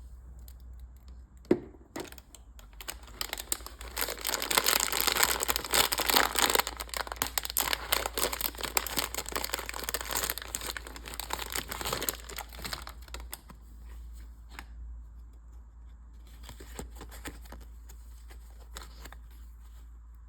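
Mystery-pack wrapper being torn open and crinkled by hand: a sharp click, then several seconds of dense tearing and crackling, then fainter crinkles near the end.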